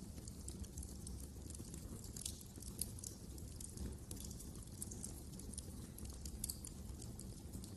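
Wood fire crackling in a fireplace: frequent small irregular pops and snaps over a steady low rumble of the flames.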